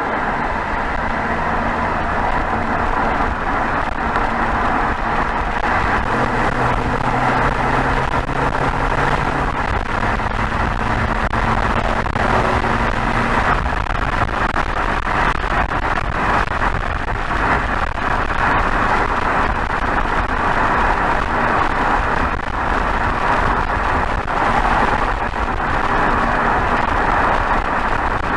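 BMW 320xd's 2.0-litre four-cylinder turbodiesel (B47D20) heard at the tailpipe while cruising at highway speed, its low exhaust note under a steady rush of wind and tyre noise. The low engine tones fade about halfway through.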